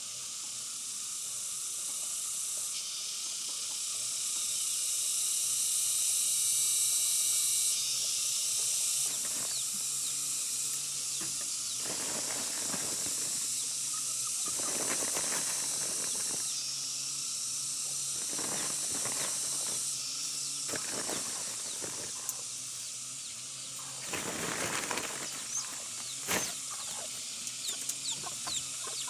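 A steady high-pitched hiss that changes level in steps, with faint short chirps over it. From about halfway through come a series of short rustling or scraping noises.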